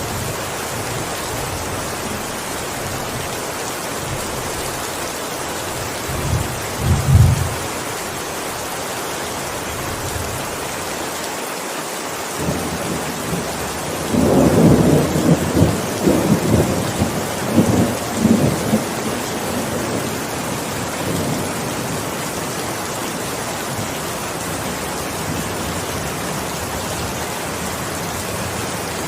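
Steady heavy rain with thunder: a short low rumble about six seconds in, then a louder rolling peal of thunder lasting several seconds from about fourteen seconds in.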